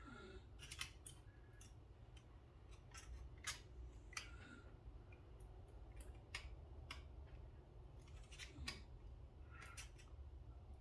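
Faint, irregular clicks and taps of the small metal parts of a disassembled Benchmade Bugout pocket knife being handled as a part of it is pushed out.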